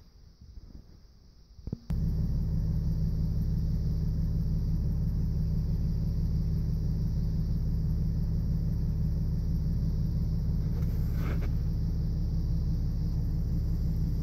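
A vehicle engine running with a steady low rumble that comes in suddenly about two seconds in, after a few seconds of faint, uneven noise. A short higher-pitched sound rises over it near the end.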